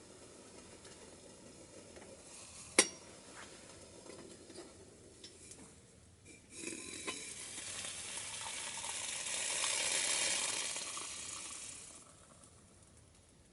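A sharp click about three seconds in, then a sizzling hiss that swells over a few seconds and fades away.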